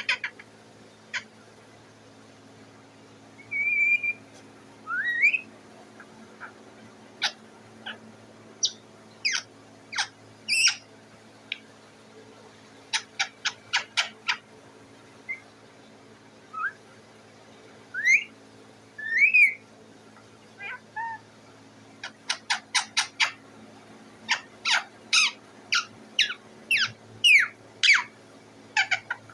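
A parrot calling: short sharp chirps and rising whistled notes, some coming in quick runs of four to six, scattered with pauses between them.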